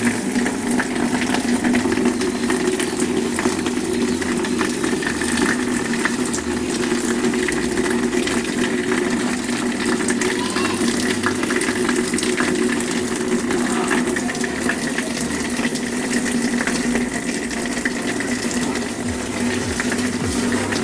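Water running steadily, flushed into a refrigerator's drain so that it flows out through the drain pipe on the other side, a check that the drain line is clear.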